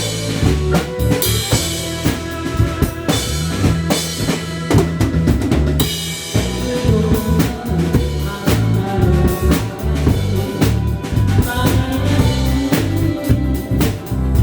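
A drum kit played live: quick snare hits, bass drum and rimshots, over a backing of pitched music.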